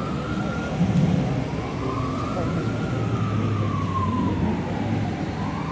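Siren wailing in a slow rise and fall, about once every four seconds, over a low steady engine rumble.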